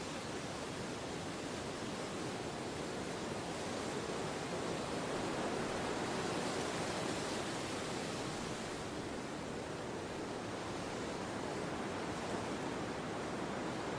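Steady wind blowing, an even rushing noise that swells a little in the middle.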